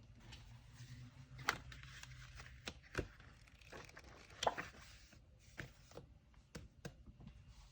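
Quiet handling of packing materials: paper rustling, with several sharp taps and knocks of items being set down or handled on a tabletop.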